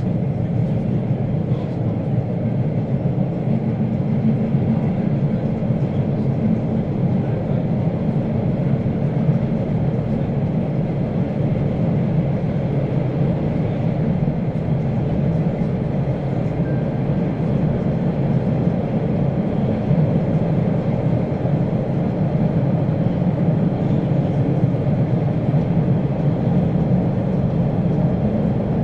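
Subway train running: a steady, deep rumble that holds even throughout.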